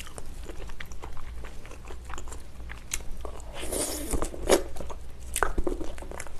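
Close-miked biting and chewing of spicy braised ox foot, soft sticky collagen and skin, heard as a run of small wet clicks and smacks. The loudest cluster comes about four seconds in, as another piece goes into the mouth.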